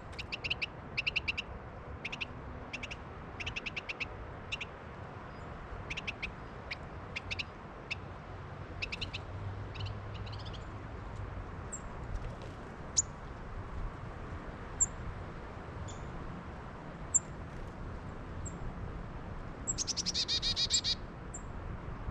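Small songbirds calling: clusters of short, sharp chip notes, then a few scattered high notes, and a quick rapid chatter near the end. A steady low wind rumble sits underneath.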